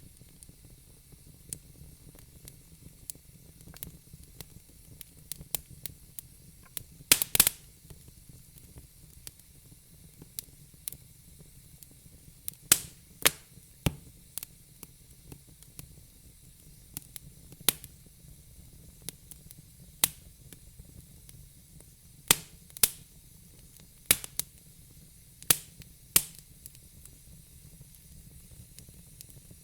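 Logs burning in a fire pit, crackling with sharp, irregular pops over a faint steady hiss. The loudest pops come in a quick cluster about seven seconds in, with single pops scattered through the rest.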